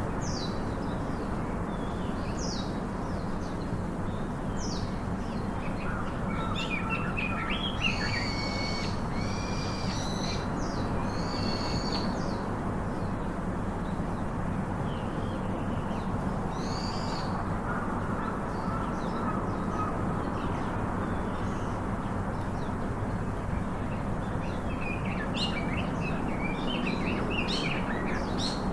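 Several wild birds chirping and calling in short bursts and trills, busiest a few seconds in and again near the end, over a steady background hiss.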